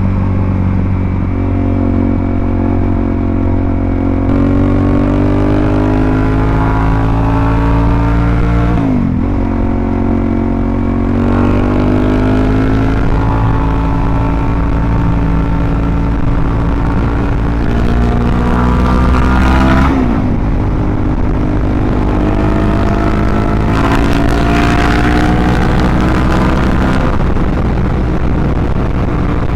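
Suzuki DRZ400SM's single-cylinder four-stroke engine running through a full Yoshimura RS-2 exhaust while riding. Its pitch climbs slowly under acceleration and drops sharply about nine and again about twenty seconds in.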